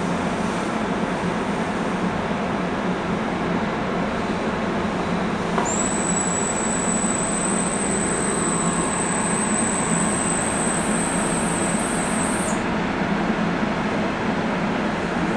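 NJ Transit electric commuter train rolling past on the Northeast Corridor tracks: a steady rumble of wheels on rail. A high, thin, steady whine starts suddenly about six seconds in and cuts off about seven seconds later.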